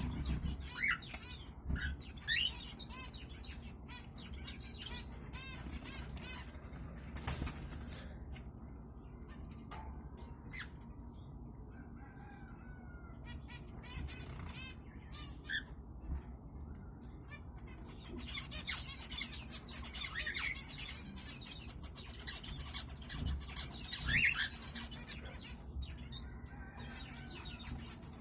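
Cockatiel chirping in short, quick rising calls, in busy runs early and late with a quieter stretch between. Scattered soft thumps and rustles are heard throughout.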